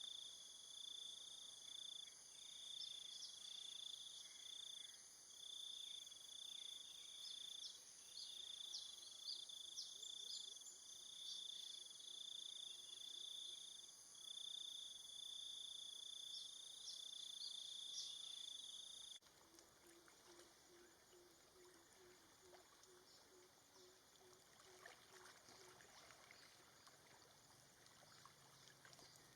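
Faint outdoor nature ambience: a steady, high-pitched insect chorus pulsing in long phrases, with short chirps over it, which cuts off suddenly about two-thirds of the way through. After the cut, quieter ambience with a low, rapidly pulsing call for several seconds.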